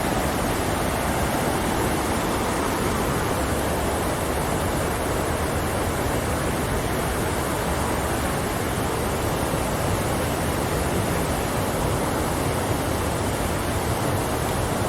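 Waterfall: a steady, dense rush of falling water with no change.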